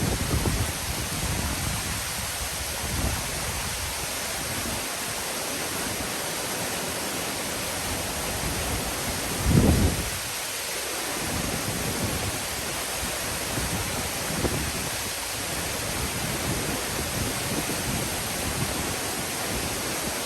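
Steady rush of Nunobiki Falls' waterfall. A brief louder low rumble comes about halfway through.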